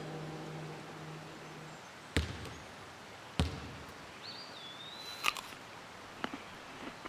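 Sparse sound effects. A low hum fades out over the first two seconds, then come two sharp clicks a little over a second apart. A short whistle dips in pitch and then levels off, followed by another sharp click and a few lighter ticks.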